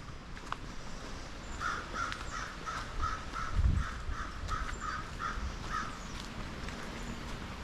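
A crow cawing in a quick run of about a dozen short calls, about three a second, that stops a few seconds before the end. Low wind rumble on the microphone, with one louder low thump in the middle.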